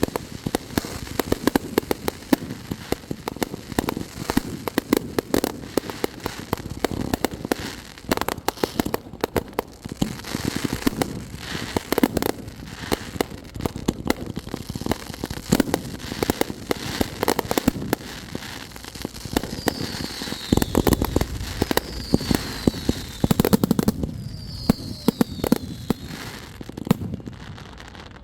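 Fireworks going off in rapid succession, a dense run of pops and crackles with heavier booms. Several whistles fall in pitch about twenty seconds in.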